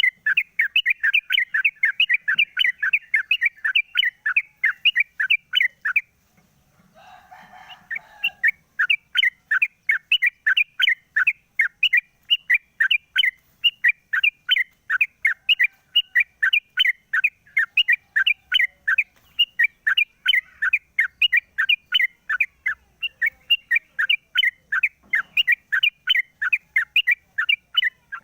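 A trucuk bird (yellow-vented bulbul) chirping in a fast, even series of short notes, about four a second. It breaks off about six seconds in, when a fainter, lower, rougher call is heard, then resumes the series steadily.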